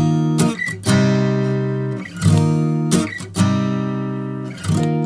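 Acoustic guitar strumming chords in a song's instrumental intro, a fresh strum about once a second with each chord left to ring and fade.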